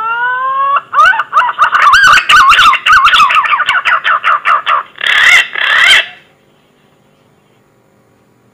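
Green pigeon (punai) song played as a hunting lure call: a rising whistled phrase, then a fast run of warbling whistled notes that rise and fall, closing with two louder notes. The song stops about six seconds in, leaving a faint hiss.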